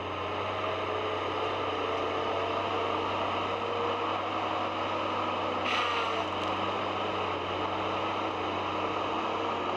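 Forestry harvester's engine running steadily, with a brief high hiss about six seconds in.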